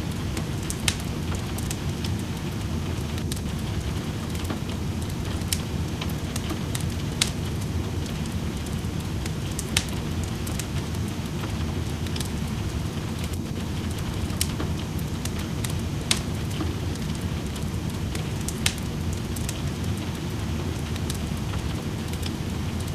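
Wood fire crackling in a fireplace, with sharp pops every second or two, over a steady low hiss of rain.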